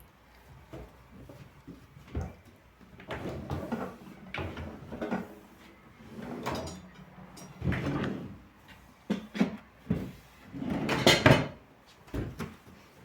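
Kitchen cupboard doors and drawers being opened and shut, with things handled and set down in a run of knocks and clatter; the loudest clatter comes near the end.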